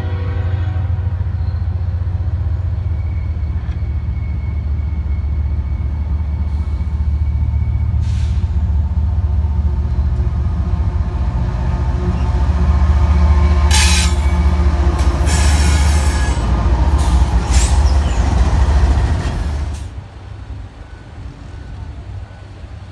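BNSF freight train passing close by: a chord of held tones, likely the locomotive horn, fades out about a second in, then the heavy low rumble of the diesel locomotives grows louder as they go by. High wheel squeal and rail clatter come in near the loudest part, and the sound drops away suddenly about 20 seconds in.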